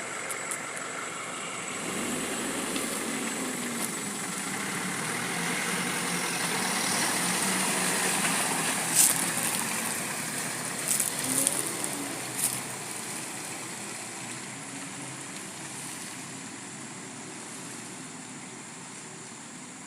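A truck engine running and revving under load, rising and falling in pitch and swelling louder through the middle before fading. Some sharp knocks come about nine seconds in and again between eleven and twelve seconds in.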